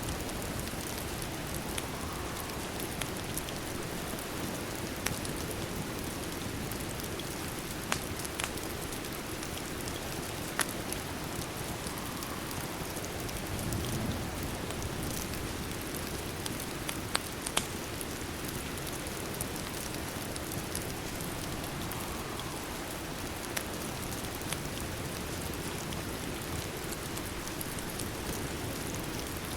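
Steady rain falling, with a fireplace crackling: a few sharp pops now and then.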